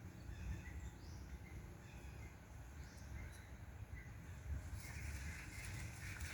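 Outdoor ambience of faint scattered chirps from birds or small animals over a low, steady rumble of wind. A hissing noise grows near the end.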